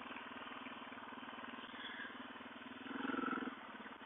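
Suzuki DR650's single-cylinder four-stroke engine running at a steady low pace, with a brief rise in level about three seconds in.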